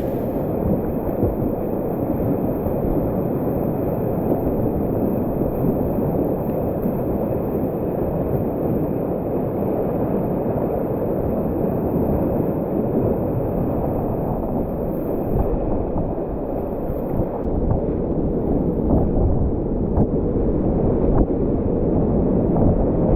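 Steady low rush of river whitewater, with wind buffeting the microphone.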